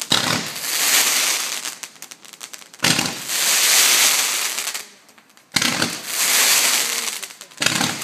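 Fireworks firing in a series: four sharp shots, one every two to three seconds, each followed by a second or two of loud hissing that dies away.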